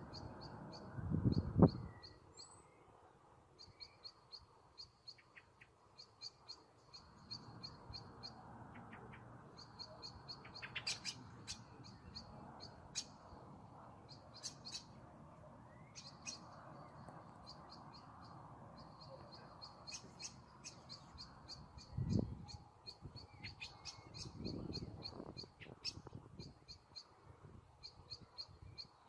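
Songbirds chirping in quick, repeated high trills over a faint steady low rush. A few brief low rumbles break in, the loudest about a second and a half in and another about twenty-two seconds in.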